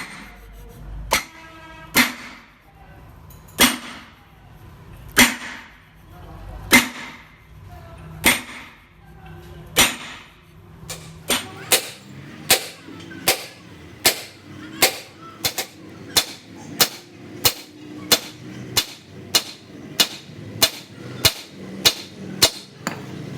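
Repeated sharp hammer blows on metal, each with a short ring: about one every second and a half at first, then quickening to about three every two seconds from about halfway through.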